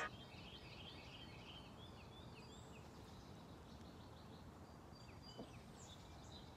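Faint birdsong: a songbird's run of quick, short chirps that thins out about halfway, over quiet outdoor background noise.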